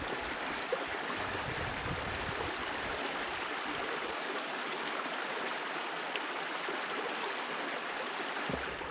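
Steady rushing of a stream's water running over rocks, with some low rumble underneath that stops about four seconds in.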